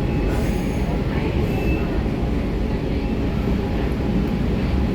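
Metro train running between stations, heard from inside the carriage: a steady low rumble of wheels and traction equipment.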